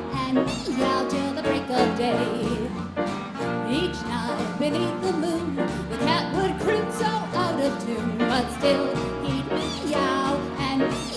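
Big band dance orchestra playing a 1940s swing number, with a woman singing over the band.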